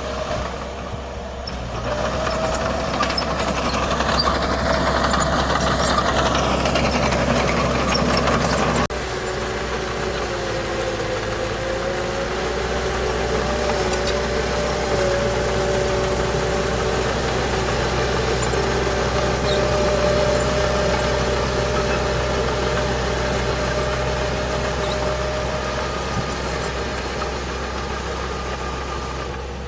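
Heavy diesel earthmoving machinery running steadily, with a held whine that wavers slightly in pitch. The sound grows louder about two seconds in and drops suddenly about nine seconds in.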